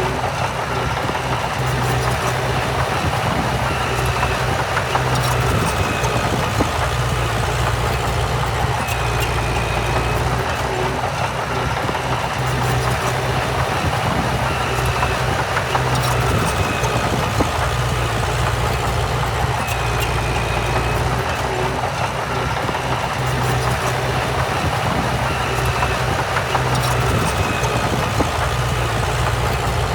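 Diesel engine of heavy earthmoving machinery running steadily, its low drone swelling and easing every few seconds as the load changes. Short high-pitched squeaks recur over it.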